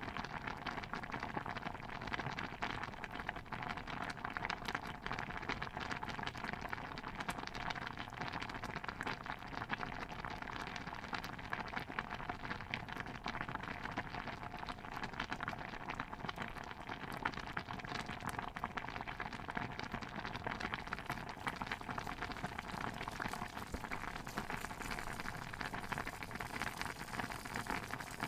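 Stew bubbling in a cauldron: a dense, steady stream of small pops and blips.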